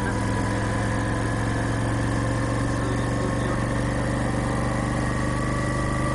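Motorcycle engine running at a steady speed, its pitch creeping up slightly over the few seconds.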